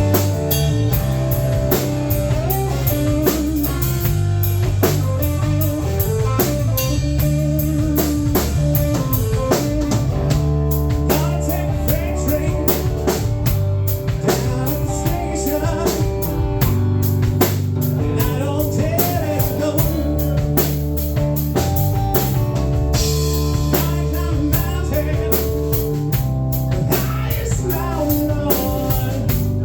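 Live rock band playing a blues-rock song, drum kit keeping a steady beat under guitar.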